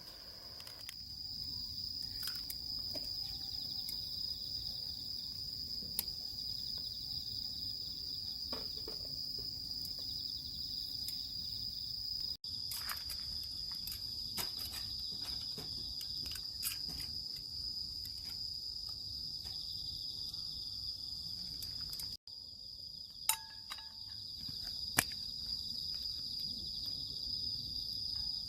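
Steady, continuous high-pitched chirring of a late-summer insect chorus, crickets among them, with a few faint scattered clicks.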